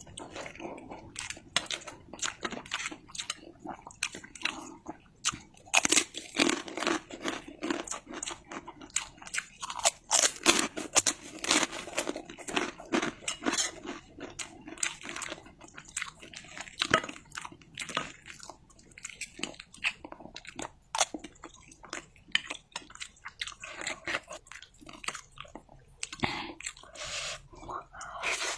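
Close-up mouth sounds of a person eating fried instant noodles with egg and chilies: continuous chewing and biting, with many irregular wet clicks and crunches.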